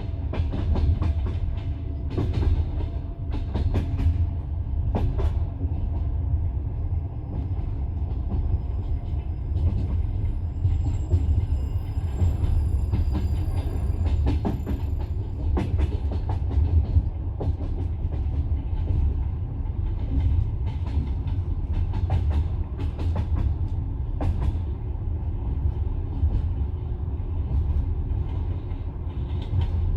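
Passenger train carriage running along the line: a steady low rumble with irregular sharp clicks of the wheels passing over the rail joints.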